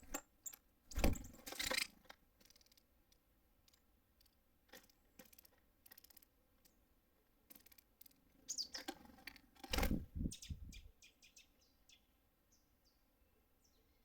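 Small songbirds at a feeder: short, high chirps and call notes, with knocks and rustling close to the microphone about a second in and again near ten seconds, as birds land, hop and peck at the feeder.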